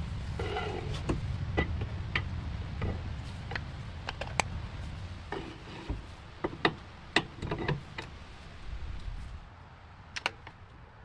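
Irregular light clicks and knocks over a low rumble, with a few sharper knocks about halfway through; the rumble fades about nine seconds in.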